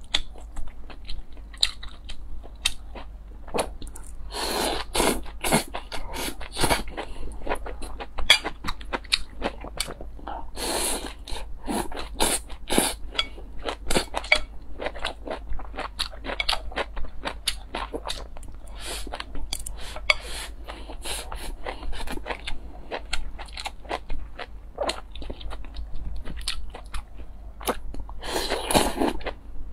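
Close-miked eating sounds: a person chewing and crunching food, with quick wet mouth clicks throughout and a few longer noisy stretches.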